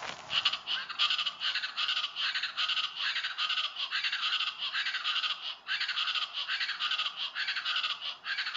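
East Brazilian chachalaca (Ortalis araucuan) calling: a loud, fast run of repeated scratchy notes, broken by one short pause about two-thirds of the way through.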